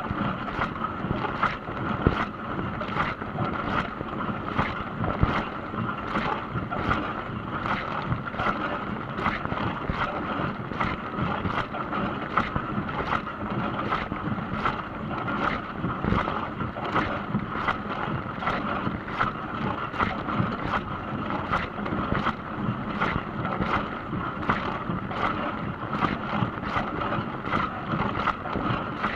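Dishwasher running its wash cycle: a steady rush of water spraying inside the tub, with a regular pulse about twice a second.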